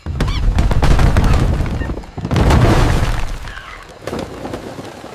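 Two loud booming crashes with clattering, the first right at the start and the second a little over two seconds in, each dying away.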